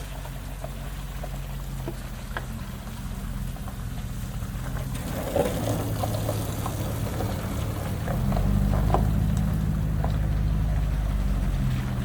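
Vehicle engine running steadily at low speed on a rough trail, with scattered small clicks and knocks over it. The hum gets louder about eight seconds in.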